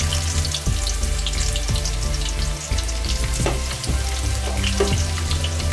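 Sliced onion and whole spices sizzling and crackling in hot mustard oil in a kadhai, with scattered small pops, as a spatula stirs them. A low steady hum runs underneath.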